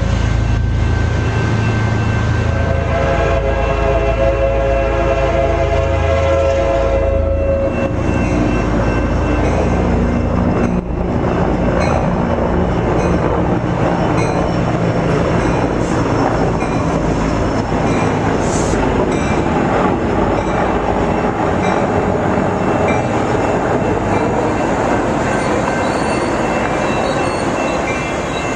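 A passenger train's horn sounds one long blast of several tones at once for about five seconds over the low running of the diesel locomotive. The train then keeps rolling by with steady rumbling and wheel clatter on the rails.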